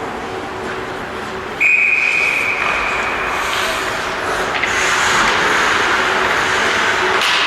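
A referee's whistle blown in one long, steady blast about a second and a half in, lasting under two seconds, over a steady background of hall noise that grows louder afterwards.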